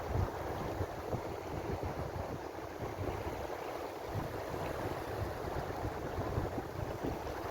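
Ocean waves washing in a steady, continuous rush, with a low flickering rumble underneath.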